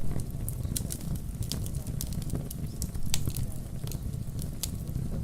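Wood fire crackling in a fireplace, irregular sharp pops and snaps over a steady low rumble, with rain in the mix.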